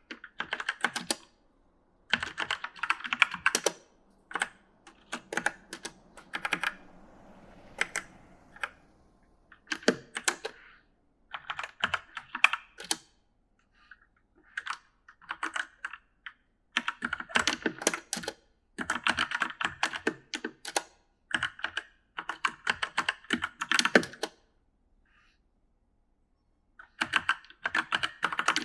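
Typing on an E-Element mechanical gaming keyboard: irregular runs of key clicks broken by pauses of a second or so, with a longer pause near the end.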